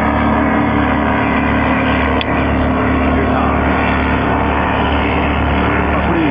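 Twin Mercury EFI 300 HP outboard engines of a race boat running steadily at speed, a loud constant drone mixed with water and wind noise.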